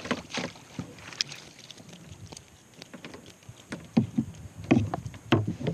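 Scattered clicks, knocks and small splashes as a small hooked cutthroat trout is brought in and landed, with the loudest knocks about four to five and a half seconds in.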